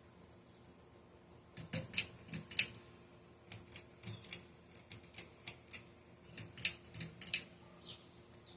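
Irregular sharp clicks and light taps of small hard parts being handled, in clusters about two seconds in and again around seven seconds, over a faint steady high-pitched whine.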